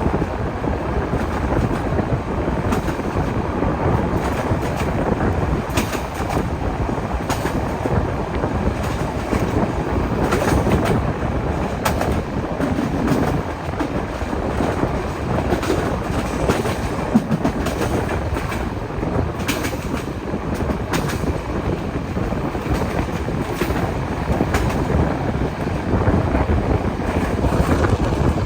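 Steam-hauled train running along the track: a steady rumble with irregular clicks of the wheels over the rails.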